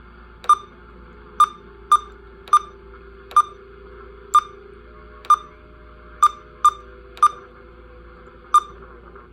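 Barecat 980 SSB CB radio's key-press beeps: about eleven short beeps at an uneven pace as its buttons are pushed to step through menu settings, over a faint steady hum.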